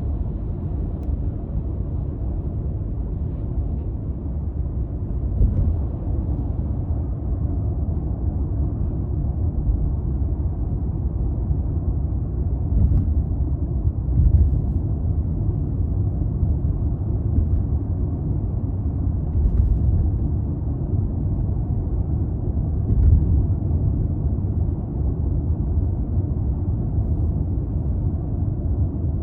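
200-series Toyota Crown Athlete with a 2.5-litre V6, driving at a steady cruise: a constant low engine and road rumble, with a few brief thumps along the way.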